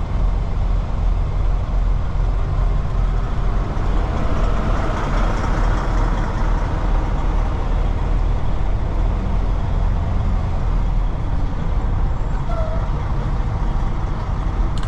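Semi truck's diesel engine running steadily with a low rumble, heard from inside the cab, growing louder and brighter for a few seconds from about four seconds in.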